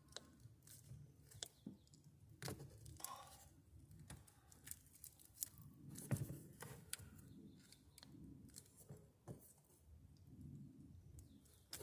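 Faint scattered clicks and light rustling of handling, with a low background rumble.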